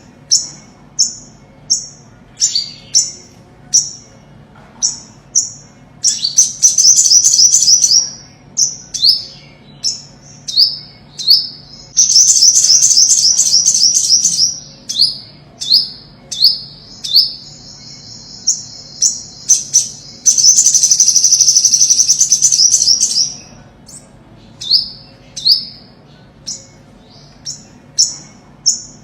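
Olive-backed sunbird singing: a series of short, high, downslurred chips about two a second, broken three times by loud, fast twittering trills that each last two to three seconds.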